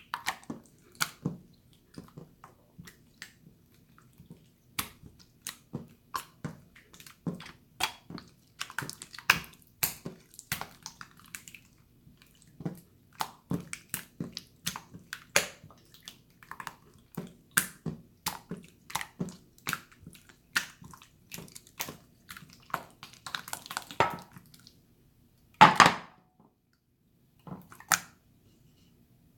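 Water slime being squeezed and poked by hand, giving a string of irregular wet clicks and pops, about one or two a second, with one louder pop near the end.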